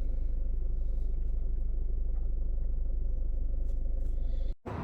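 Steady low rumble of a vehicle cabin on the move, cut off suddenly near the end.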